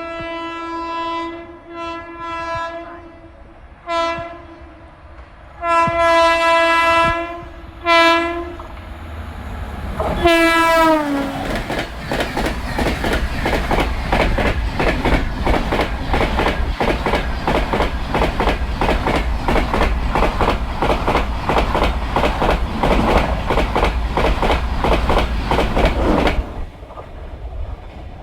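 A passing Indian Railways train sounds its horn about six times as it approaches, short and long blasts, the last one dropping in pitch as it goes by. Its wheels then rattle fast and steadily over the rail joints for about fifteen seconds, stopping abruptly as the last coach clears.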